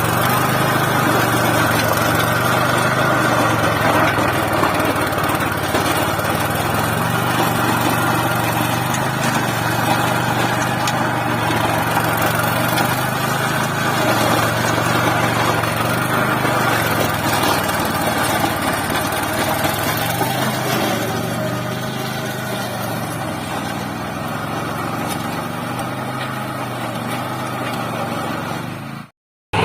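Small mini-tractor engine running steadily under load, its pitch wavering slightly up and down. The sound breaks off abruptly for a moment near the end.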